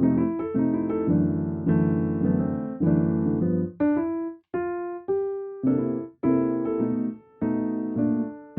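Background piano music: gentle chords and melody notes struck in phrases, with a couple of brief pauses in the middle.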